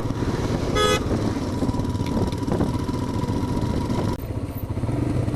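Royal Enfield Himalayan's single-cylinder engine running steadily as the motorcycle rides along, with a short high-pitched beep about a second in.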